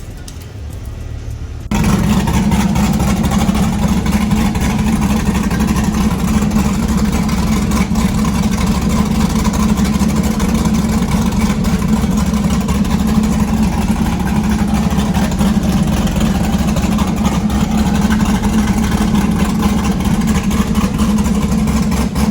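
Chevrolet Caprice PPV's cammed V8 running loudly through an exhaust that has been cut open. It starts suddenly about two seconds in and holds steady.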